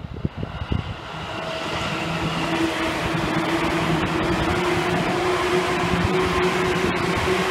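Seibu Railway N2000 series electric train approaching and running past at close range. Its running noise swells over the first couple of seconds and then stays loud and steady, with a steady hum running through it.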